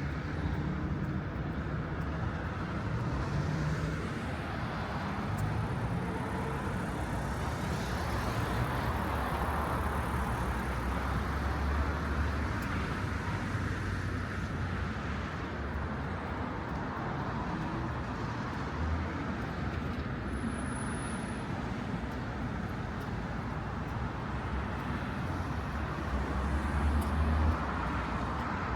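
City street traffic: cars running past in a continuous rumble of engine and tyre noise, swelling as vehicles pass, loudest as one goes by near the end.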